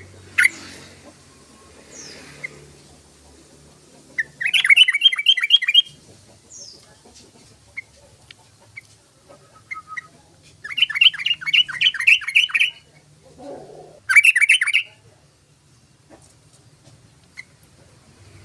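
Yellow-vented bulbul (trucukan) singing: three bursts of quick repeated notes, each burst one to two seconds long, with a few single chirps between them.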